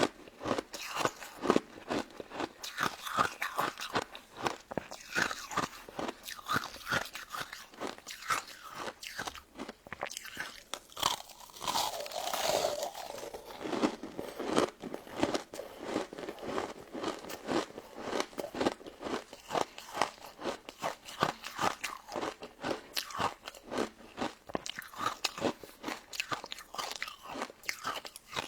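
Close-miked crunching and chewing of a crisp, icy crystal dessert: rapid sharp crunches, several a second, with a brief smoother stretch about twelve seconds in.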